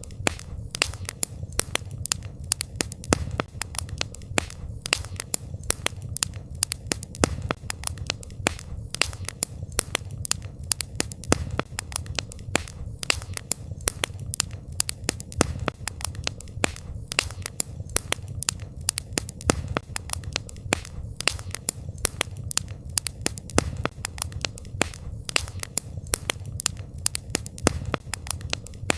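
Campfire crackling: a constant run of sharp pops and snaps, several a second, over a low steady rumble of the burning fire.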